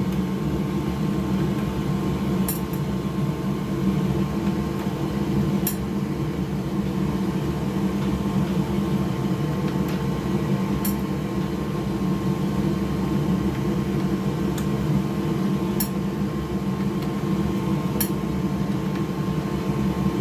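Steady electric machine hum, like a running fan, with a light click every few seconds as small screws are undone by hand.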